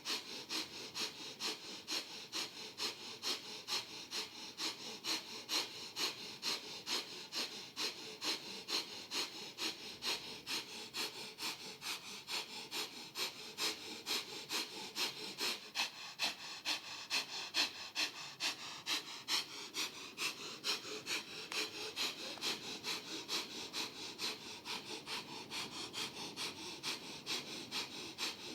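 Breath of Fire: rapid, rhythmic breathing in and out through the nose, each breath a short sniff-like puff. The breaths are even, about two to three a second.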